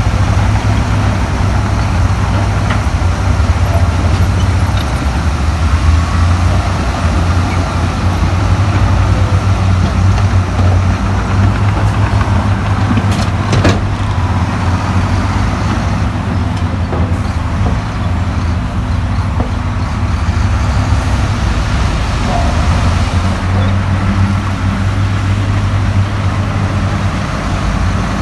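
Heavy diesel earthmoving machinery running steadily under load, a deep continuous engine drone, with a couple of sharp metallic knocks about halfway through.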